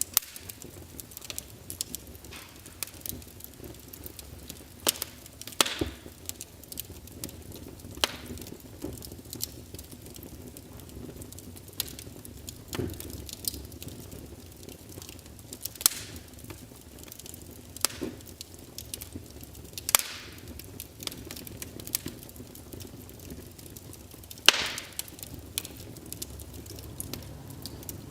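Crackling wood fire in a fireplace: irregular sharp pops and snaps, a few louder than the rest, over a low steady background.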